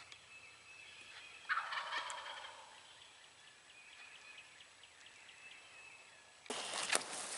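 Eastern wild turkey gobbling once, about a second and a half in: a loud rattling call about a second long that drops in pitch. Near the end, footsteps start rustling through dry leaves.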